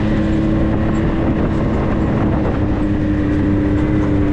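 Steady road and engine noise inside a moving vehicle's cabin: a constant low rumble with a steady hum.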